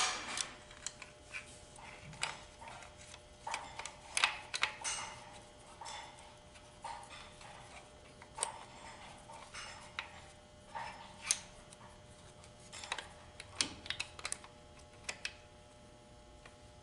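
Irregular clicks, taps and metallic clinks of automatic transmission parts being handled and fitted by hand, some with a short ring.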